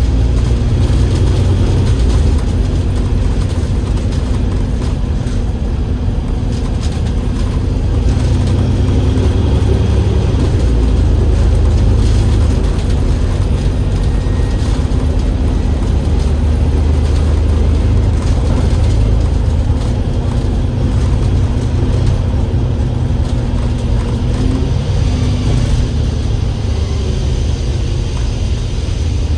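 Diesel double-decker bus, an Alexander Dennis Enviro500 MMC with a Cummins L9E engine and ZF Ecolife automatic gearbox, running under way with a loud, steady low rumble. The engine note shifts in pitch a few times.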